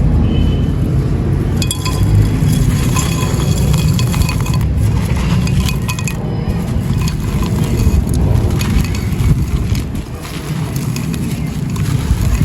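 Dry mini clay pots and gritty sand being crushed and crumbled close to the microphone: a dense, continuous run of crunching and crackling with small sharp clinks.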